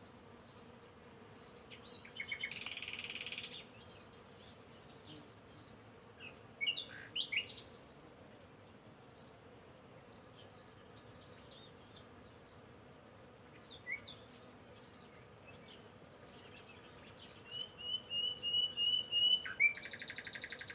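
Songbirds chirping and trilling off and on: a buzzy trill, a few quick chirps, then a run of about six even repeated notes leading into another buzzy trill near the end. A faint steady hum lies underneath.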